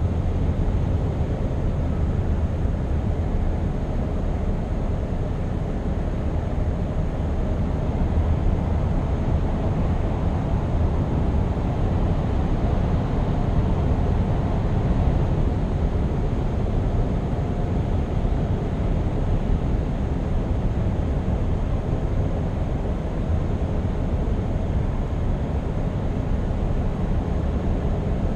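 Scania R520's 16-litre V8 diesel engine running steadily under way, mixed with road and tyre noise, at an even level with no gear changes or revving.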